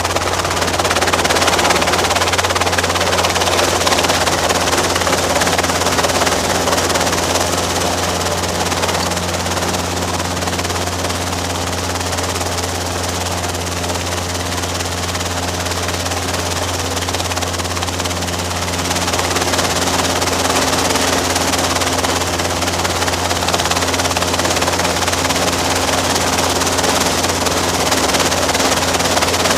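Robinson R22 helicopter running steadily, a continuous loud drone of engine and rotors with a deep steady hum beneath a rushing noise. It eases slightly in the middle and picks up again about two-thirds of the way through.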